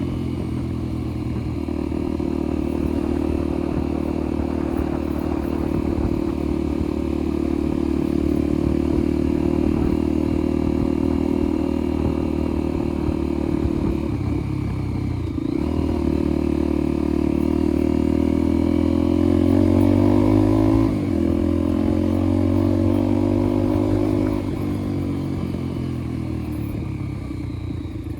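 Motorcycle engine running under way. The pitch dips briefly about halfway, rises as it revs up about two-thirds in, then drops off sharply and settles.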